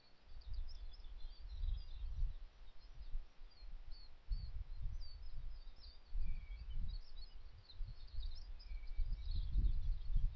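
Small birds chirping throughout, many short high calls with a few longer notes among them. Under them runs an uneven low rumble that swells and fades several times and is loudest near the end.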